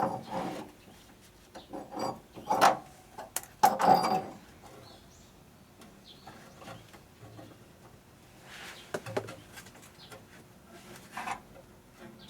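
Irregular scraping and rubbing, with several loud strokes in the first four seconds and a few fainter ones later.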